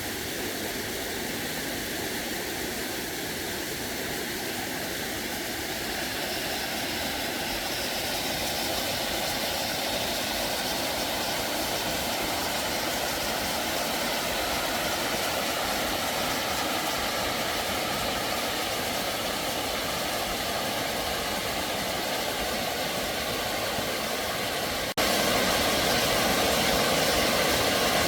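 Mountain stream rushing steadily, with a sudden break near the end after which the rushing is louder.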